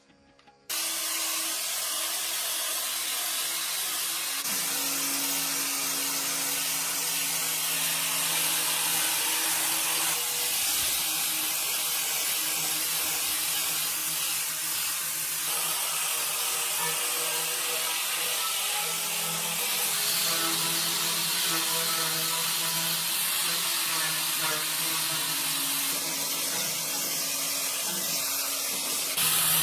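A motor-driven tool running steadily with a strong hiss over a low hum; the hum changes pitch several times.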